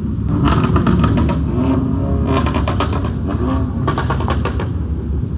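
Car engines idling in a steady low rumble, broken four times by short bursts of rapid crackling clatter.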